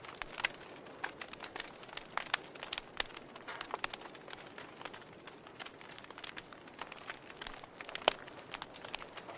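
Campfire burning, with irregular sharp pops and crackles over a low hiss; one louder pop comes a little after eight seconds.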